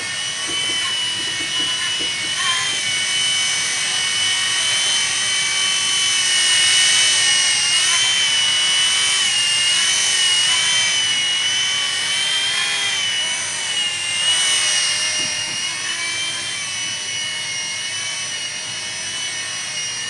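Blade mSR micro RC helicopter in flight: its brushed motor and rotors give a high whine whose pitch wavers up and down as the throttle changes.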